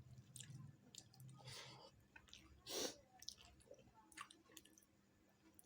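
Close-miked mouth sounds of a person eating: chewing with small wet clicks, and one louder noisy burst a little before the middle.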